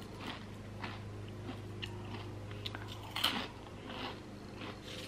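Close-up chewing of crunchy Quest chili lime protein chips: irregular crisp crunches and mouth sounds, the loudest crunch a little past the middle.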